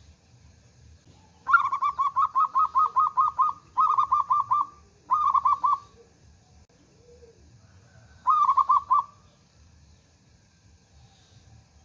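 Zebra dove (perkutut) calling: four bursts of rapid, evenly repeated cooing notes, the first about two seconds long and the others shorter.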